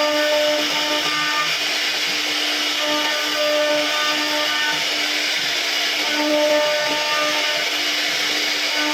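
CNC router spindle running steadily while carving wood, a constant whine over a hiss of cutting noise, with higher tones that come and go every second or so as the machine moves along its path.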